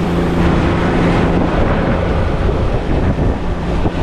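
Boat's outboard motor running at higher speed, with wind buffeting the microphone and water rushing past the hull. The motor's steady hum fades into the rush of wind and water about half a second in.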